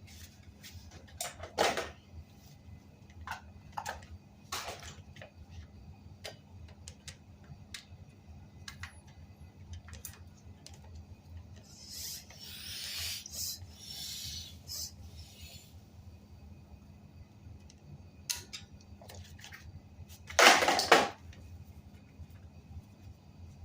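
Hand work on a bicycle tire and wheel: scattered clicks and knocks of tools and parts being handled, a rubbing, rustling noise for a few seconds in the middle, and one louder clatter near the end, over a steady low hum.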